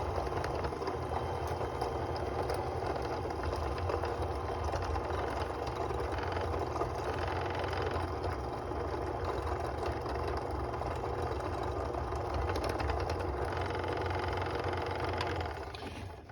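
Fellow Ode Gen 2 burr grinder's motor running steadily at a coarser setting, with no catch in the burrs, then winding down just before the end.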